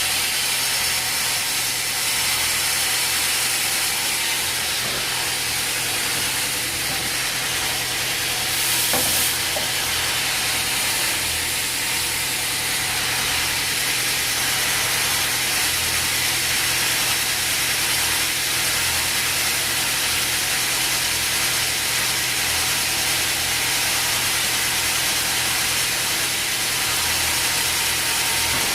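Sawmill machinery running steadily, a constant hum under a loud hiss, with a brief sharper hiss just before nine seconds in.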